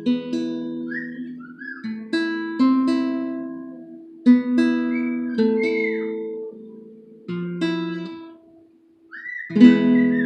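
Big Baby Taylor acoustic guitar played fingerstyle: single notes and chords picked and left to ring and fade, with a brief pause and a fresh chord near the end. A pet bird whistles along in short swooping notes a few times, including over the final chord.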